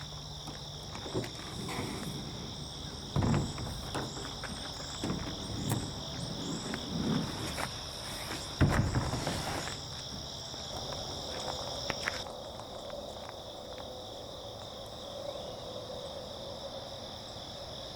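Steady insect chorus, two high unbroken tones ringing on and on. Over it come scattered knocks and scuffs through the first two-thirds, the loudest a thump a little before halfway.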